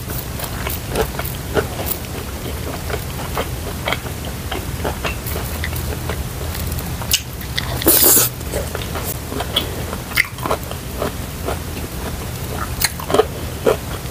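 Close-miked chewing and mouth clicks of a person eating a mouthful of sticky rice with preserved radish, with one louder noisy burst about eight seconds in.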